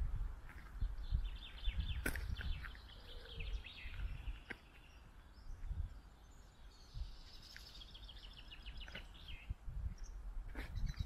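A songbird singing twice: each phrase is a rapid run of repeated high notes lasting two to three seconds, the first about a second in and the second past the middle. Underneath runs a low rumble with occasional soft thuds.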